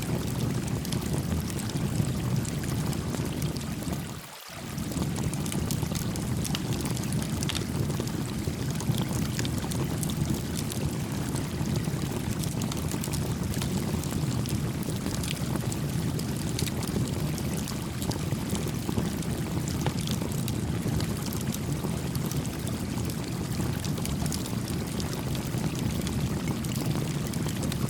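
Small wood campfire crackling with scattered sharp pops over the steady rush of a flowing stream. The water sound dips out briefly about four seconds in.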